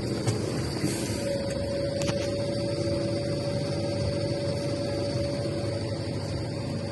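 Scania truck's engine running steadily, a low hum with a steady whine that comes in about a second in.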